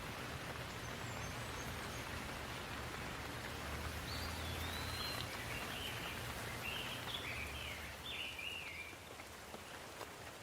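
Steady rainfall, an even hiss of drops, with a bird chirping a quick series of short notes in the middle and a low steady rumble underneath.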